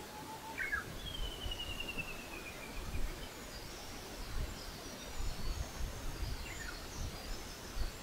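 Wild birds calling over a steady outdoor hiss: a long trill about a second in that falls slowly in pitch, short falling notes, and scattered high chirps in the second half. Low rumbling bursts run underneath.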